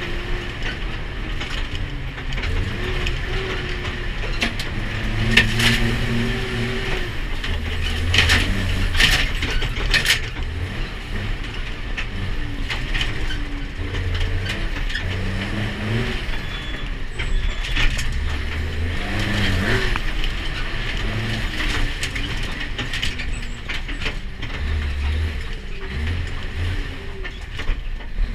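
Ginaf Dakar rally truck's engine running with its pitch rising and falling, over a steady rattle of the truck's body, with sharp knocks and bangs here and there, the strongest between about five and ten seconds in.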